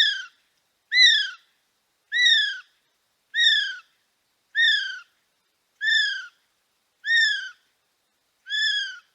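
Male kiwi calling: a series of about eight shrill whistled notes, one a little over every second, each rising briefly then falling. The last few notes are slightly quieter.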